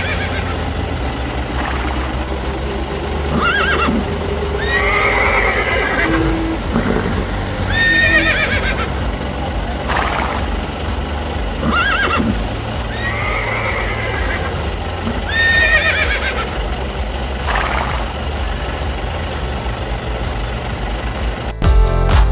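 Horse whinnying again and again, a call every two seconds or so, over steady background music. Near the end the music switches abruptly to a louder electronic track.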